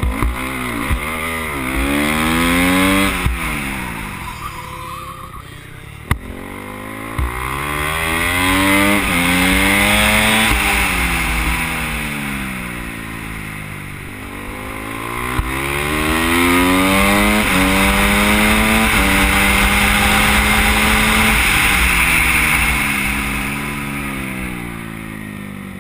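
Racing motorcycle engine at full pace, with wind rush on a helmet-mounted microphone. Three times the engine climbs in pitch through the gears in steps, holds high, then falls away as the rider slows for a corner.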